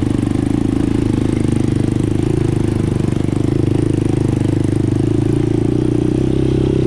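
An ATV engine running steadily at low speed while the quad crawls along a trail.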